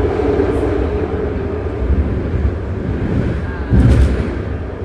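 BART train running between stations: steady rumble of wheels on rail, with one brief louder low thump about four seconds in.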